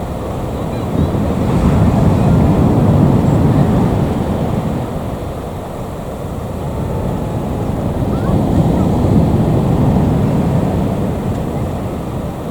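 Jet airliner engine rumble, a steady low roar that swells twice, mixed with wind buffeting the microphone.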